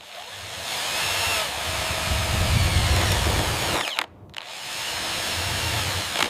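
Power tool running in two long stretches, with a short break about four seconds in.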